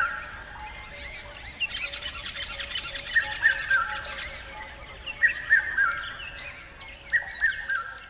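Birdsong: several birds chirping together, with one bird repeating a loud phrase of three falling whistles about every two seconds. The birdsong fades near the end.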